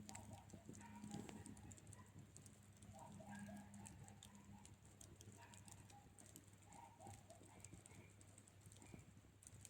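Faint crackling of a wood campfire, with scattered small pops and clicks over a low steady hum.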